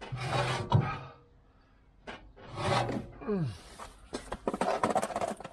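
Things being shifted and handled: a run of rubbing and scraping with sharp knocks and clatters, and a short falling pitched sound about three seconds in.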